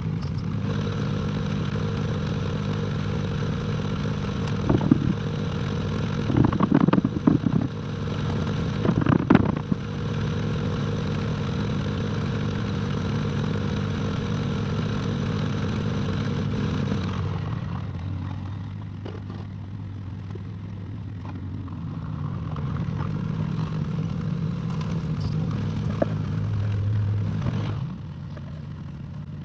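Excavator engine running steadily, with loud bursts of clatter and scraping from the digging work in the first ten seconds. The engine eases down about two-thirds of the way through, builds up again, then drops near the end.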